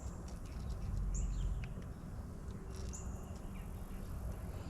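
A short, high, thin chirp repeated about every second and a half, from a wild creature, over a low rumble that swells about a second in.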